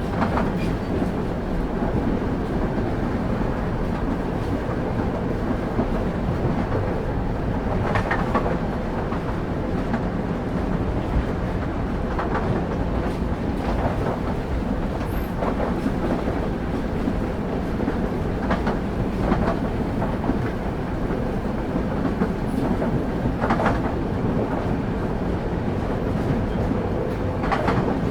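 Railway carriage wheels running along the track: a steady low rumble with a sharp clack every few seconds as the wheels pass over rail joints.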